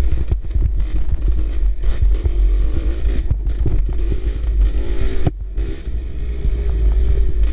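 Dirt bike engine running on a trail ride, its pitch rising and falling with the throttle and easing off briefly about five seconds in, over heavy low rumble and knocks from bumps and wind on the microphone.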